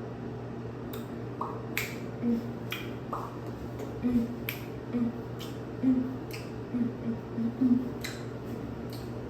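A series of about ten sharp clicks or taps at irregular spacing, over a steady low hum.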